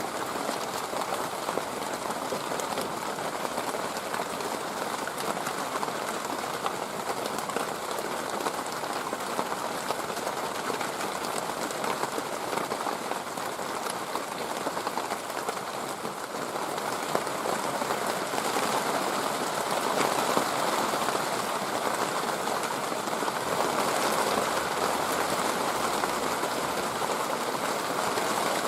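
A steady, even hiss that grows a little louder in the last third.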